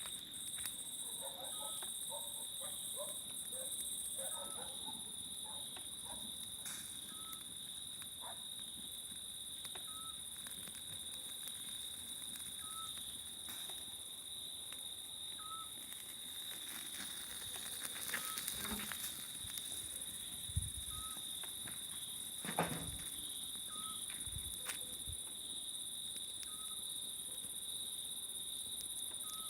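A steady, shrill chorus of crickets and cicadas. A small owl repeats a short call about every three seconds over it. A wood campfire gives scattered crackles and a few louder knocks after the middle.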